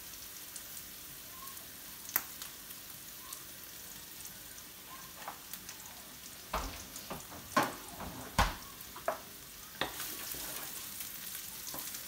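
Onions, garlic and ginger sizzling steadily in oil in a frying pan, with a few sharp knocks of utensils or containers in the middle. Near the end a wooden spatula stirs the pan and the sizzle grows a little.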